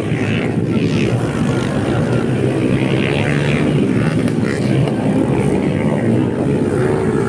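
Dirt bike engines running steadily.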